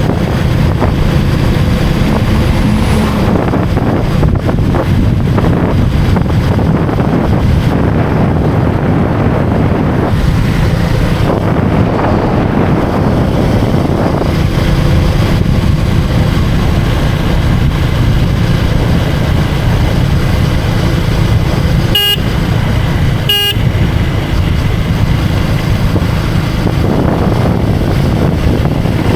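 A road vehicle's engine running steadily under way with wind rumble on the microphone. A vehicle horn beeps twice, briefly, about a second and a half apart, near the end.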